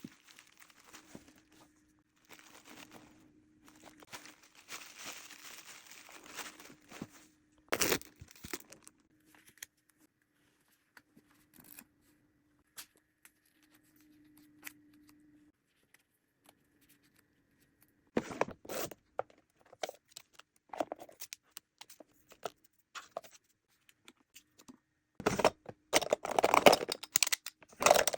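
Packaging being handled close to the microphone: soft rustling at first, a sharp knock about eight seconds in, then scattered taps and a dense run of crinkling and tearing near the end, as of paper or plastic wrap and tape.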